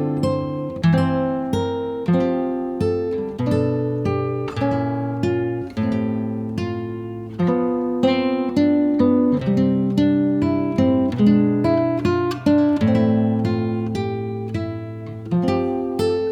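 Background music: acoustic guitar playing plucked and strummed chords at an easy, even pace.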